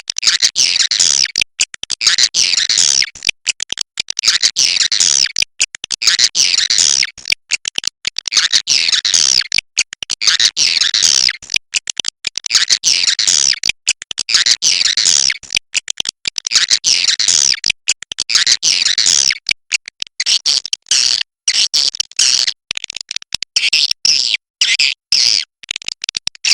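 Swiftlet roosting calls ('walet inap'): rapid, high twittering chatter in repeated phrases about every two seconds, turning into shorter, quicker bursts near the end.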